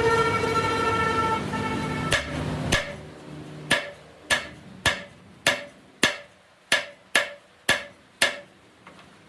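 A steady pitched machine hum that stops after about two and a half seconds, followed by a run of about ten sharp, ringing hammer blows on metal, roughly two a second.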